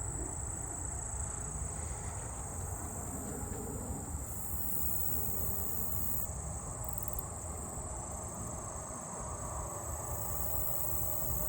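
Chorus of crickets and katydids singing: a steady high-pitched trill runs throughout, while a still higher, shrill buzz comes and goes in stretches of a couple of seconds, over a low rumble.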